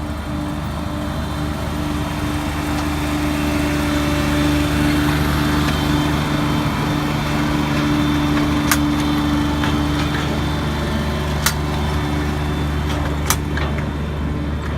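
Engine of a one-third-scale park train running steadily, with a low hum and a held higher tone that fades out about ten seconds in. A few sharp clicks come in the second half.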